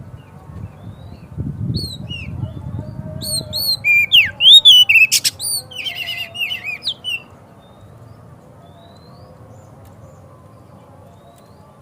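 Oriental magpie-robin (kacer) singing: a loud burst of sharp whistled and scratchy phrases lasting about five seconds, beginning a couple of seconds in. After it comes a low background hum with only faint, scattered distant chirps.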